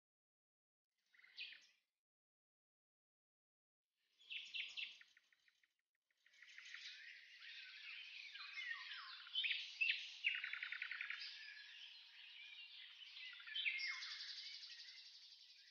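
Small birds chirping: a couple of short calls, then from about six seconds in a dense chorus of overlapping chirps and trills that fades near the end.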